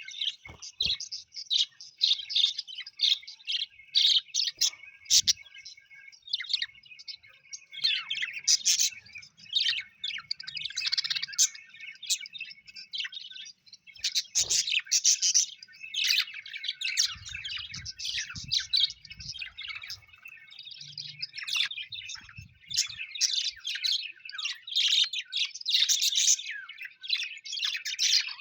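Pet parrots chirping and warbling almost without a break, several birds' quick high calls overlapping, with a few sharp clicks among them.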